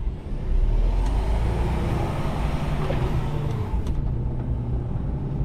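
Mercedes-Benz Actros truck's diesel engine running on the road, a steady low rumble that grows louder about half a second in.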